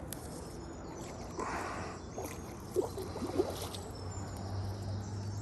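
Lakeside ambience with a brief splash of water about a second and a half in, a few sharp clicks, faint high bird calls and a low steady hum that grows near the end.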